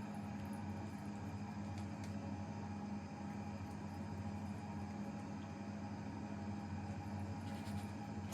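Steady machine hum with a constant low drone, a few faint ticks over it, cutting off abruptly at the end.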